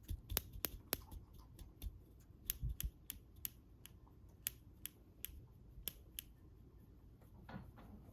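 Pet bird snapping its beak: a string of sharp, dry clicks, a few a second at an uneven pace, stopping about six seconds in, followed by a short, softer noisy sound near the end.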